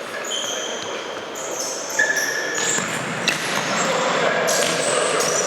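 Indoor futsal play: sneakers squeaking on the hall floor in short high-pitched chirps, and the ball being struck sharply a couple of times, with the hall's echo.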